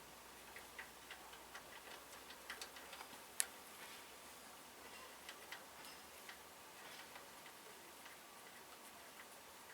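Faint, irregular light ticks and clicks, a few a second, with one sharper click about three and a half seconds in.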